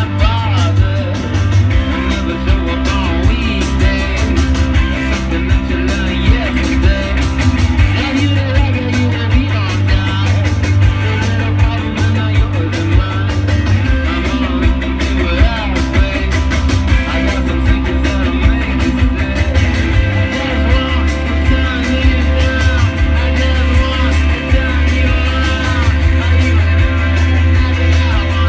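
Live rock band playing loud through a festival PA, heard from the crowd: driving drums, a heavy bass line, electric guitars and a male lead vocal singing.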